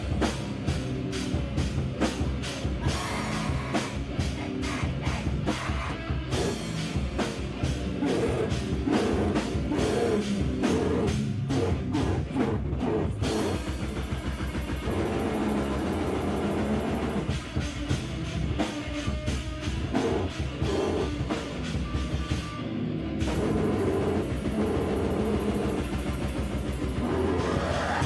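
A live band playing loud, heavy rock: guitar and drum kit with a fast, steady drumbeat that shifts to a different pattern about halfway through.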